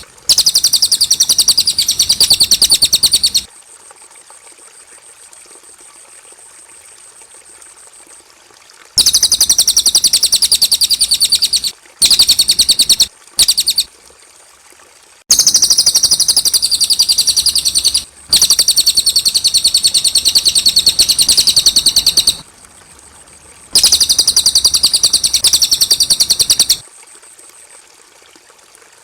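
Cililin birdsong: bouts of fast, repeated high notes, each lasting one to four seconds, broken by pauses of a second or more.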